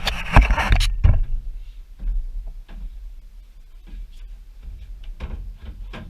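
Metal clattering and scraping as steel car wheel dollies are handled and set down on a truck's cargo floor, loudest in the first second, then scattered knocks.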